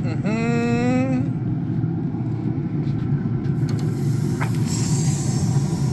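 A man's voice holding a sung note for about the first second, then a steady low rumble like a running vehicle engine.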